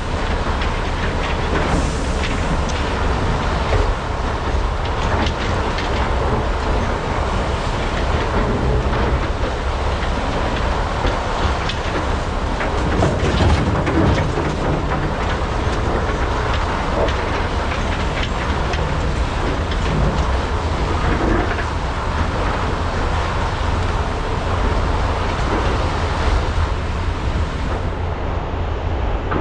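Large hydraulic mining excavators (a Komatsu PC395 and SANY SY485Hs) working: their diesel engines run steadily under load with a deep rumble, over continual clattering and knocking of rock and metal as they dig and load.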